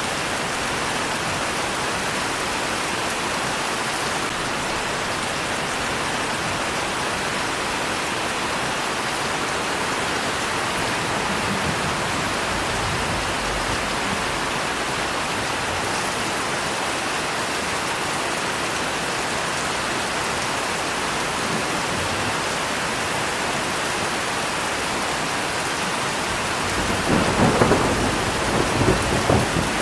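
Steady rain falling. Near the end, a rumble of thunder rolls in and briefly rises above it.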